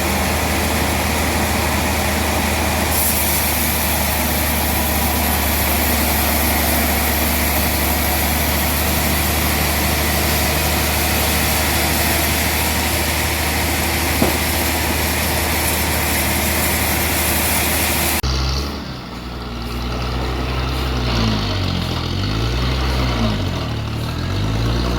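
Heavy engine running steadily with a deep hum. About 18 seconds in it cuts abruptly to another engine that revs up and down over and over.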